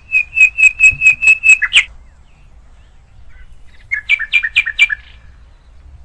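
A bird calling loudly: a quick run of about eight sharp, evenly repeated notes lasting under two seconds, then, a couple of seconds later, a shorter run of about five notes.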